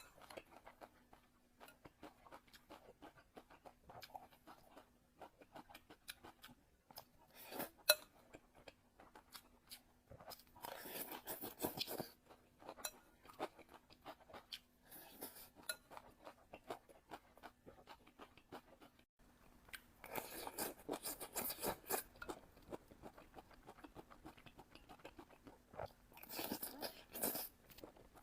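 Close-miked chewing and biting of food: a run of small mouth clicks, with three louder spells of chewing spread through.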